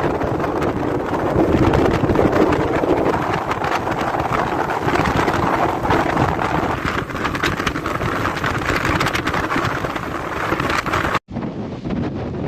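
Storm wind rushing and buffeting the microphone, a loud gusty noise with no steady tone. About 11 seconds in it cuts off abruptly and resumes as a duller wind noise.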